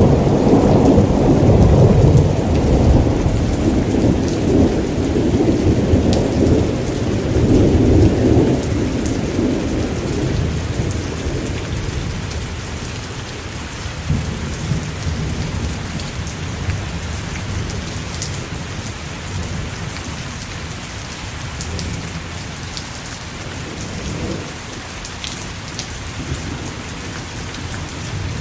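Steady heavy rain with a long roll of thunder that rumbles through the first ten seconds or so and then fades away, leaving the rain hiss with a few faint sharp ticks.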